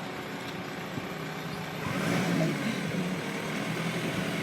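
Lorry's diesel engine running, getting louder about two seconds in as it takes more power while manoeuvring.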